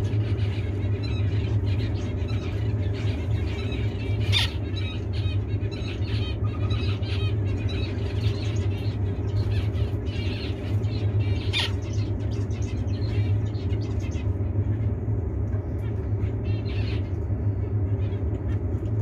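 Zebra finches chirping, with the male's fast chattering song, over a steady low hum. Two sharp clicks cut through, about four seconds in and again about eleven and a half seconds in, and the chirping thins out in the last few seconds.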